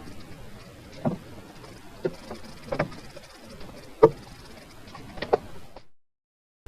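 A handful of short, light knocks and clunks, about one a second, over a low background hiss; the sound cuts out to silence near the end.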